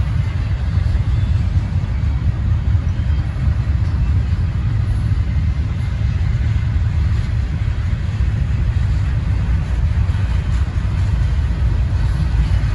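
Steady rumble of a double-stack intermodal container train's well cars rolling past on the rails, their wheels running over the track.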